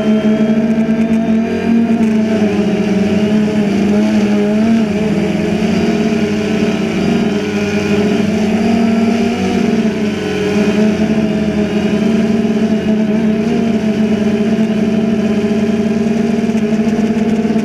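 DJI Phantom 2 quadcopter's electric motors and propellers humming steadily, several close pitches wavering slightly up and down as it holds its flight.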